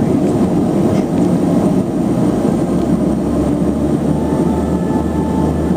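Let L-410 Turbolet's twin turboprop engines running steadily, heard inside the cabin as a loud, even drone.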